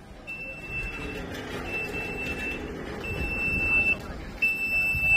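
A Scania sprinkler truck's electronic warning beeper sounding a regular series of long single-pitch beeps, roughly one every second and a half and growing louder toward the end, over the low running of the truck's diesel engine.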